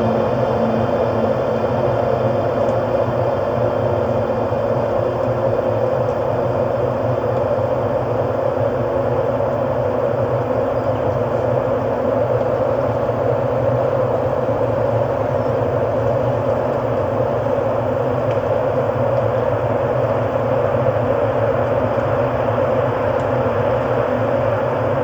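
Ambient electronic music: a steady, dense drone with held low tones and no beat.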